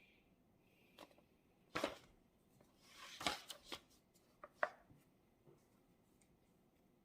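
A few light knocks and taps of small objects set down and handled on a desk, with a short paper-like rustle about three seconds in.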